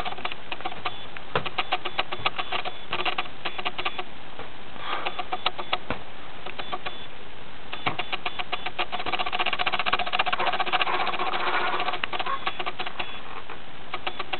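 Rubber balloon being bounced and tapped by hand: runs of quick, light taps in irregular clusters, thickest in the second half.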